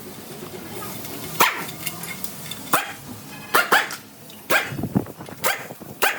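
A dog barking, about eight short sharp barks at irregular intervals.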